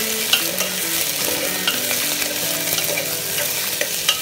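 Chopped bottle gourd and onion sizzling in hot mustard oil in an aluminium pressure cooker as a steady hiss, with a few short clicks of a spoon stirring against the pot.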